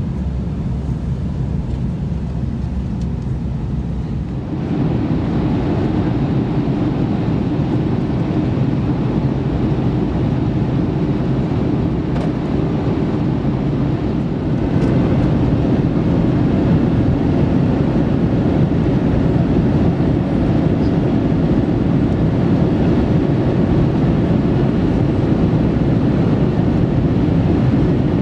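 Steady cabin noise of an Airbus A321neoLR airliner descending towards landing: a deep, even rush of engines and airflow. It grows louder and brighter about four and a half seconds in, and again about halfway through.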